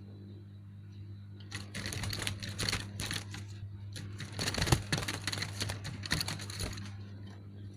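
Sooty-headed bulbul giving a harsh, rapid chattering run for about five seconds, starting a second and a half in, over a steady electrical hum.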